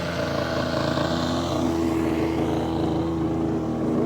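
Radio-controlled model boat's motors running steadily at speed, their pitch stepping up about one and a half seconds in as the throttle is opened further.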